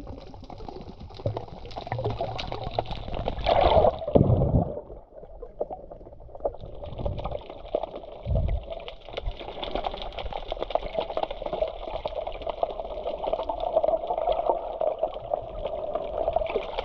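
Sea water sloshing and gurgling close to the microphone, with a heavier surge about four seconds in and another low splash a few seconds later.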